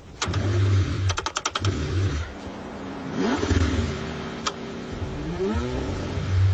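Car engine being cranked in freezing cold, with a quick run of clicks about a second in, then rising and falling engine pitch.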